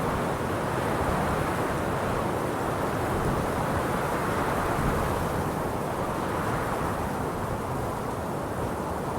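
Wind blowing steadily, a dense rushing noise with a deep rumble from the wind hitting the microphone.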